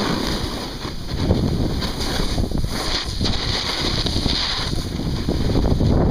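Wind buffeting the microphone: a loud, steady rushing noise that swells and dips unevenly.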